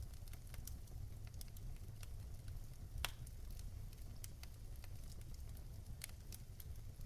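Wood fire crackling in a fireplace: scattered sharp pops over a low, steady rumble, with one louder pop about three seconds in.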